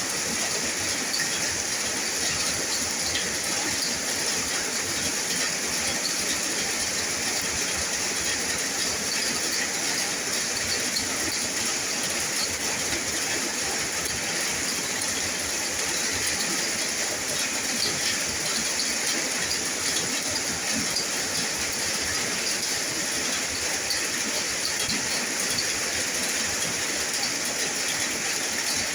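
Steady rain: an even, unbroken hiss with the fine patter of individual drops.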